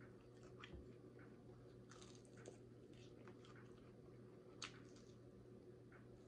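Faint close-up chewing and mouth sounds of someone biting and gnawing the meat off a piece of fried chicken: scattered soft clicks and smacks, with one sharper click about four and a half seconds in.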